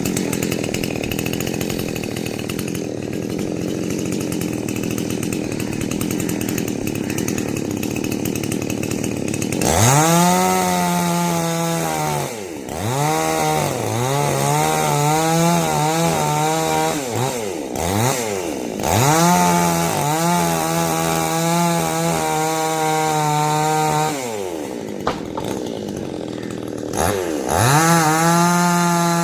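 Two-stroke chainsaw running, rougher and lower for about the first ten seconds. It then revs up to a high, steady whine in several long stretches, dropping back briefly about a third of the way in, around the middle, and again near the end.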